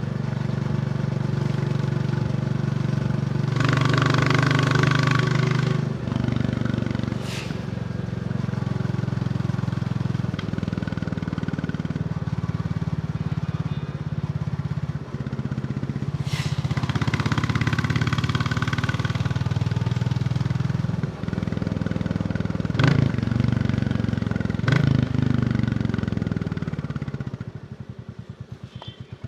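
Royal Enfield Bullet 350's single-cylinder engine running under way, with two stretches of rushing noise and a few sharp clicks. Near the end the engine pitch falls as it slows and it goes quieter.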